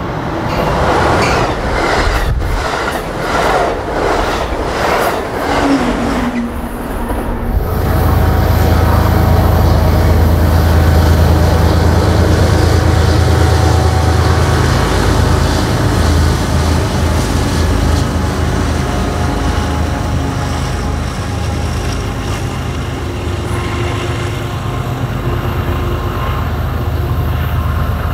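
A passenger train rolls past, its wheels clattering in an even rhythm. About seven seconds in, a BNSF double-stack freight takes over, its lead diesel locomotives running with a strong, steady low drone. The drone eases as the container well cars roll by.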